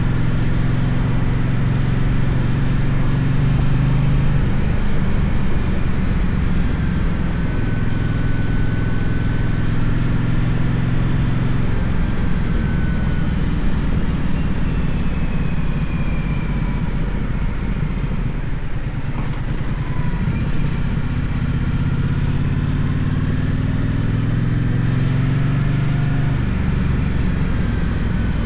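Gaokin GK1200 motorcycle engine running while riding, its low note changing with the throttle several times.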